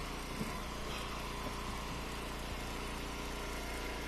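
Engine of a hydraulic log splitter running steadily, with a small knock about half a second in.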